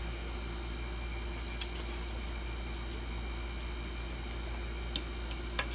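A person chewing a mouthful of spaghetti, with faint wet mouth sounds and a few small clicks and smacks, over a steady low hum.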